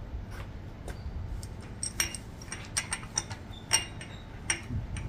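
Light metallic clinks and taps, about five of them with a brief ringing tone, as metal engine parts such as the camshaft timing gear are handled, over a steady low background hum.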